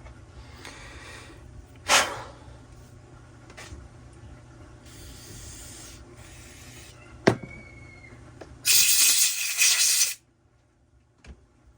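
An aerosol cleaner sprayed in a loud burst of about a second and a half near the end, rinsing out a chainsaw-type crankcase part. Before it come two sharp knocks, one about two seconds in and one about seven seconds in, with fainter shorter hisses between them.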